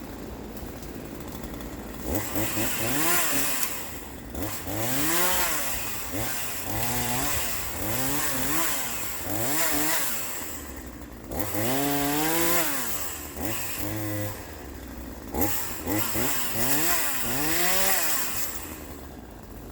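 Troy-Bilt TB4218 42cc two-stroke chainsaw idling, then revved up and let back down again and again, about ten times, before it drops back to idle near the end.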